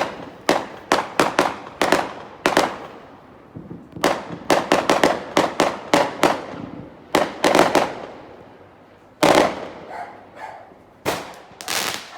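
Fireworks going off in rapid volleys of sharp bangs, each with a short fading tail, in several clusters with brief lulls between.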